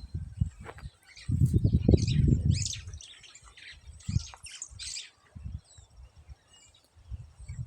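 Small birds chirping, many short high calls in quick succession, over a low rumble on the microphone that is loudest from about one to three seconds in.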